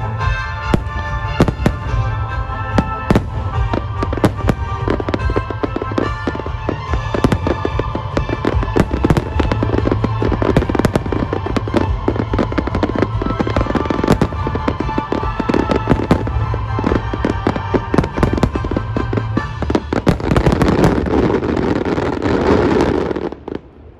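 Fireworks display: aerial shells bursting one after another over music, building to a dense barrage of bangs about twenty seconds in that cuts off suddenly near the end.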